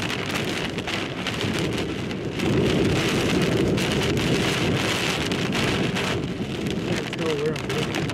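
Heavy rain pelting the windshield and body of a moving car, heard from inside the cabin as a dense, steady hiss and patter mixed with wet road noise. It gets louder about two and a half seconds in.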